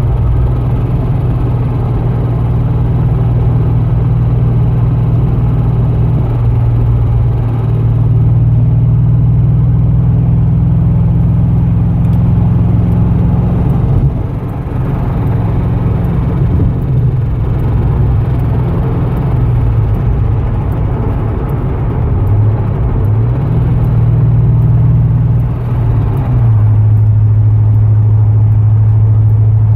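GM LS7 7.0-litre V8 running, mostly at a steady idle with a few shifts in engine speed, with a ticking noise from the engine.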